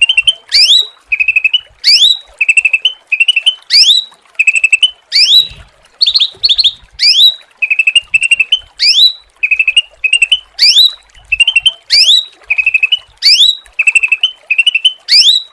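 A songbird, called cucak ranting by Indonesian bird keepers, repeats the same call about once a second. Each call is a short buzzy trill followed by a quick rising whistle that ends high.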